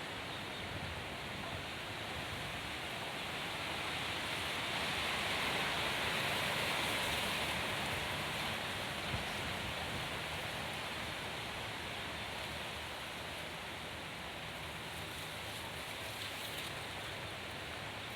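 Strong wind blowing steadily, swelling into a stronger gust around six seconds in and then easing back.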